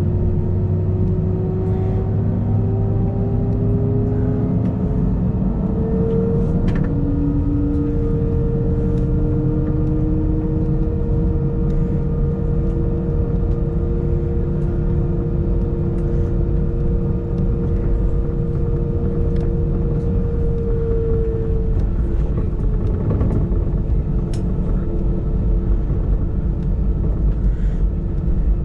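Airbus A320's jet engines heard inside the cabin, spooling up to takeoff thrust: several whine tones rise over the first six or seven seconds and then hold steady over a heavy, continuous rumble.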